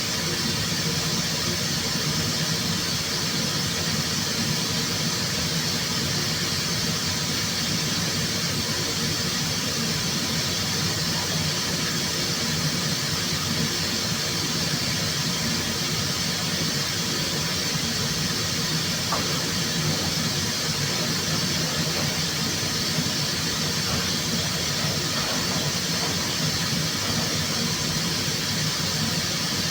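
Steady rushing air and hum of a car paint spray booth at work, its air running without a break.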